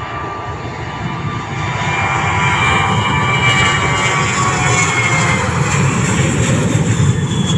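Airliner's engines passing close by: a loud roar that builds over the first two or three seconds and then holds, with a whine that slides slightly down in pitch as the aircraft goes past.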